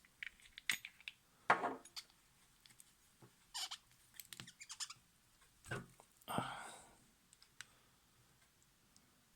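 Small metal sewing-machine handwheel parts being handled: scattered clicks, light knocks and short scrapes, the loudest a knock about a second and a half in and a longer scrape a little past the middle.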